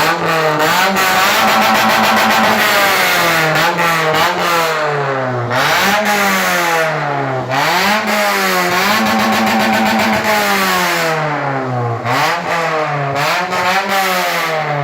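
Toyota Corolla's engine revved again and again through an aftermarket Varex valved exhaust, plainly with the valve opened, its pitch climbing and falling with each blip. The revs sink back toward idle near the end.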